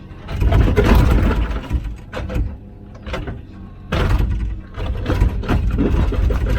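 Komatsu PC16 mini excavator's diesel engine running under load while the bucket scrapes and crunches through rocky soil, with loud bursts of scraping and knocking about half a second in and again from about four seconds on.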